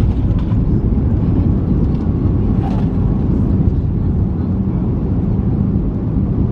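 Steady low rumble of cabin noise inside a Boeing 737 MAX 8 seated over the wing, the engines and the rolling aircraft heard through the fuselage after landing, with a faint steady hum on top.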